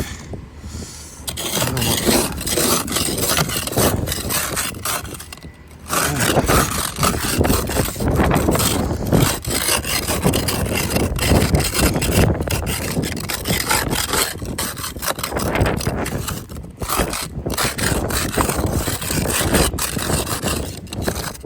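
Snow and ice being scraped off a car's windows and body: repeated rasping strokes, with a short lull about five seconds in.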